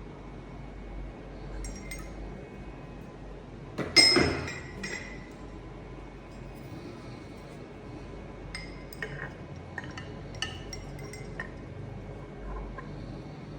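Hard metal-on-metal clinking, the kind made by parts or tools being handled and set down: one loud ringing clink about four seconds in, then a run of lighter clinks later on.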